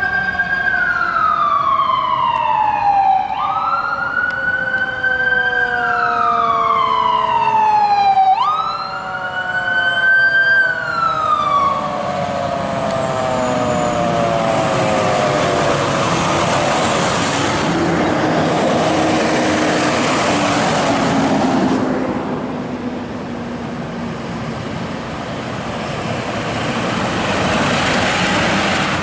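Emergency vehicle siren wailing, its pitch rising and falling about every five seconds for three cycles before fading out. After that comes a loud, steady rush of road noise from the passing vehicles.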